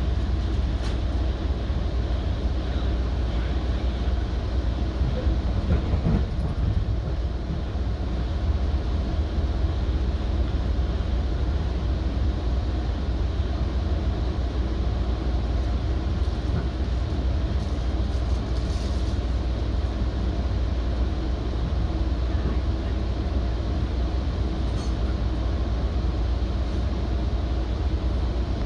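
Metrolink commuter train in motion, heard from inside a passenger car: a steady low rumble of wheels on rails and running noise.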